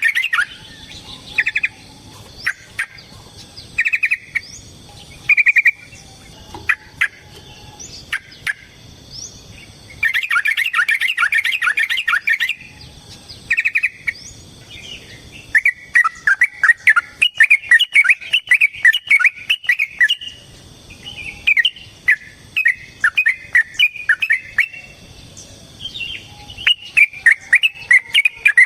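Yellow-vented bulbul (trucukan) singing in short, rapid bubbling bursts, then one long dense burst, then an almost unbroken run of chattering phrases through the second half, its long 'ropel' song.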